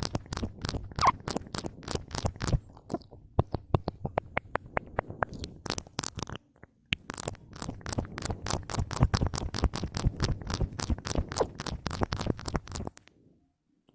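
Close-miked ASMR mouth sounds: rapid clicking and smacking, in long dense runs with a short pause a little past halfway. The sounds stop about a second before the end.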